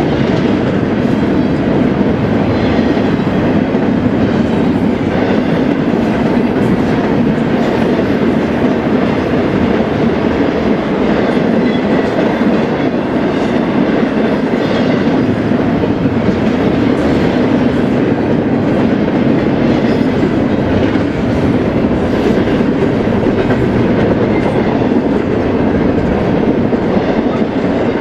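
Freight train cars rolling past close by: a steady, loud noise of wheels on rail.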